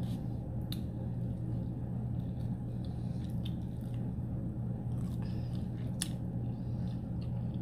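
Biting into and chewing rotisserie chicken, with moist mouth sounds and a couple of sharp clicks, over a steady low hum.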